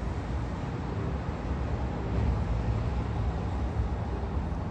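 Distant diesel work train moving slowly along an elevated track, a steady low rumble mixed with city traffic noise.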